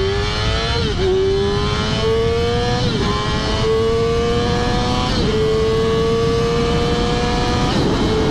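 Motorcycle engine accelerating hard through the gears toward about 100 mph, its pitch climbing in each gear and dropping at quick upshifts about 1, 3, 5 and 8 seconds in.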